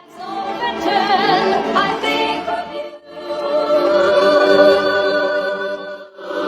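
Music with singing: long held sung notes with a wavering vibrato, in two phrases, the second beginning about halfway through.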